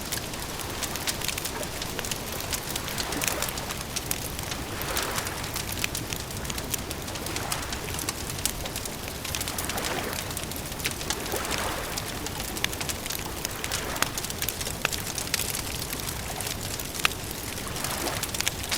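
Campfire crackling: frequent sharp pops and snaps over a steady hiss, with soft rushing swells every couple of seconds.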